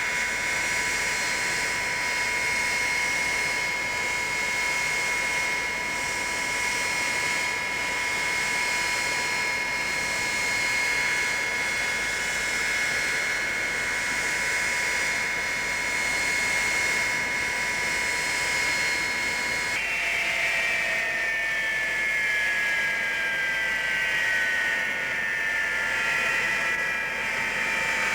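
Avro Vulcan B2's Rolls-Royce Olympus turbojets running with a steady high whine. About 20 seconds in, the whine changes and several tones fall slowly in pitch as the engines are throttled back.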